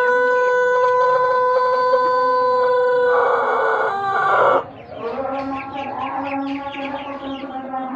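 Pelung rooster's long drawn-out crow held on one steady pitch, ending abruptly about four and a half seconds in. It is followed by quieter, broken clucking and calling from fowl.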